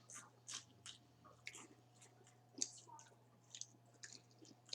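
Close chewing of crispy fried food: quiet, scattered little crunches and mouth sounds, over a faint steady hum.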